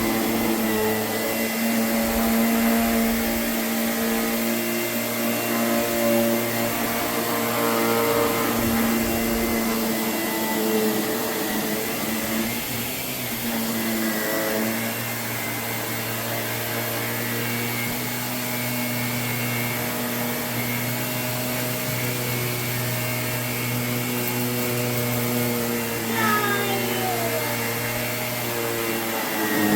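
Household vacuum cleaner running steadily, its motor hum holding an even pitch over a rushing air noise, with a brief wavering about halfway through.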